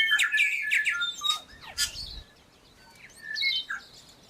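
Bird calling: a busy run of whistled notes, quick sliding chirps and harsh, scratchy calls, loudest in the first second and again near the end.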